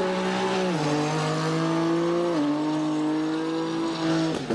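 Mercedes-AMG engine held at high revs, its pitch stepping down twice in steady stages, then falling away near the end.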